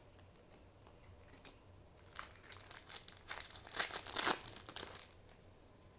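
Foil wrapper of a trading-card booster pack crinkling and tearing as it is handled and opened, in a run of crackles from about two seconds in to about five seconds in.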